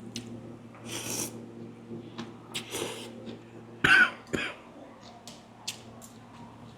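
A man coughing and clearing his throat while eating noodle soup, from eating too fast. The loudest cough comes about four seconds in, after a couple of softer breathy noises.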